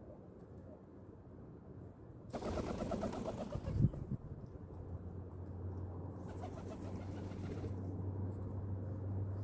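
Pigeons cooing, with a brief thump about four seconds in. A steady low hum sets in about halfway and runs under the cooing.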